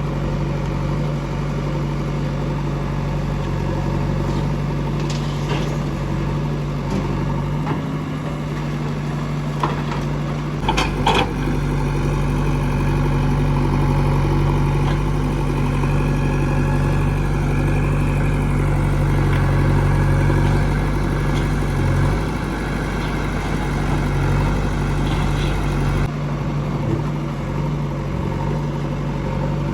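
Heavy diesel engine of earth-moving machinery running steadily, with a short burst of metallic clanks about eleven seconds in.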